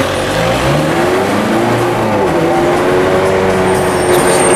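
Ferrari 430 Scuderia's 4.3-litre flat-plane V8 heard from inside the cabin: the revs climb briefly about half a second in, drop back, then hold steady at a low cruise.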